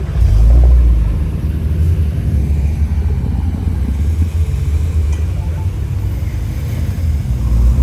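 A car's engine running with a low, steady rumble, swelling briefly about half a second in and again near the end.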